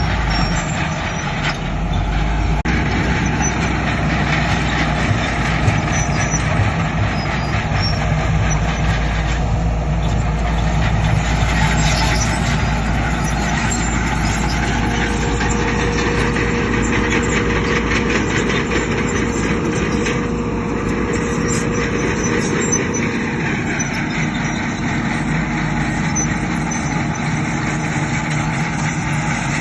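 Heavy diesel construction machinery engines running steadily under work, with a deep rumble. A steady whine joins in about halfway through for several seconds.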